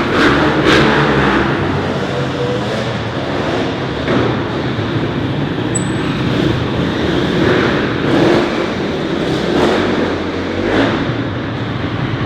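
Dirt bike engine revving up and down over and over, with the throttle opened again every second or two.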